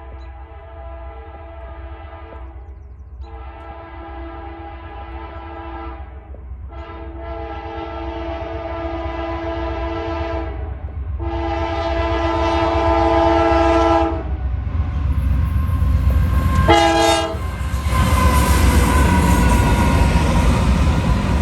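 Freight locomotive air horn sounding four long blasts and then a short one about 17 seconds in, growing louder as the train approaches. From about 15 seconds in, the train passes close by with loud rumbling and rail noise.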